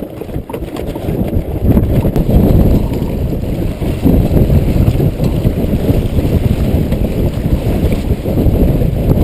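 Strong wind buffeting the microphone aboard a small sailboat, a heavy low rumble that grows louder about a second and a half in and keeps up.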